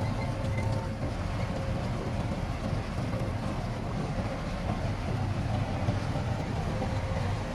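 Heavy diesel earthmoving machinery running steadily: a continuous low rumble with a faint steady whine above it.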